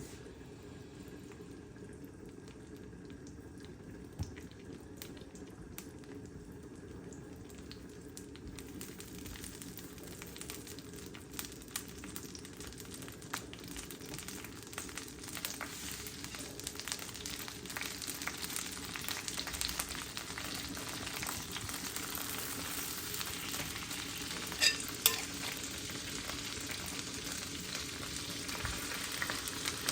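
Food frying and sizzling in a pan, the sizzle growing louder about a third of the way in, with the small clicks and scrapes of a utensil stirring; two sharp clinks late on.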